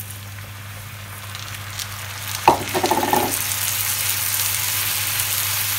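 Meat and carrots sizzling in a non-stick frying pan as dry rice is poured in and spread with a spatula. About halfway there is a sharp knock and a brief scrape against the pan, after which the sizzle grows louder.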